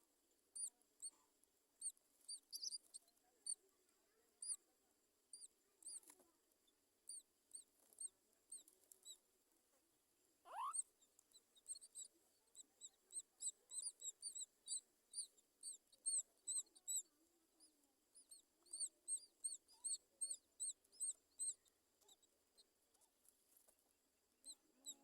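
Nestling birds in the nest giving many short, high-pitched begging peeps in quick runs, busiest in the second half. About ten seconds in there is one rising squeal.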